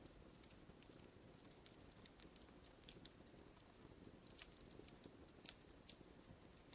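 Wood fire in a fireplace crackling faintly: scattered small pops and ticks over a low, soft hiss, with a couple of slightly sharper pops about four and a half and five and a half seconds in.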